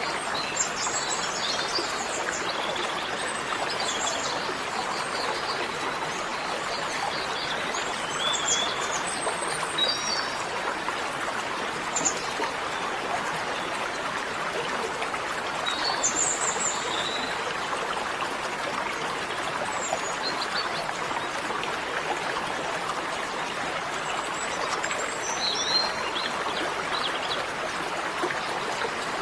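Steady running water, like a flowing stream, with scattered short bird chirps over it.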